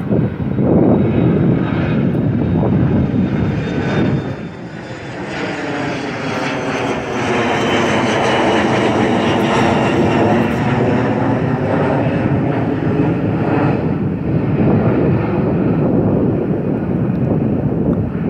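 Jet airliner departing, its engines at takeoff power as it passes, the noise swelling through the middle with a sweeping, wavering tone.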